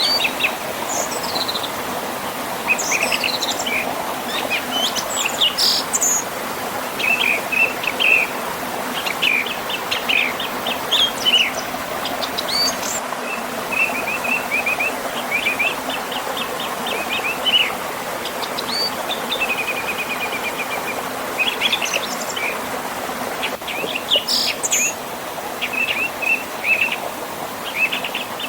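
Several birds chirping and trilling in quick, repeated phrases over the steady rush of a river and a small waterfall.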